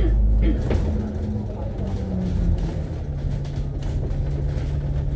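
Cabin noise of a KMB Alexander Dennis Enviro500 double-decker bus under way: its diesel engine and drivetrain running with a steady hum. The engine note drops to a lower steady pitch about three seconds in.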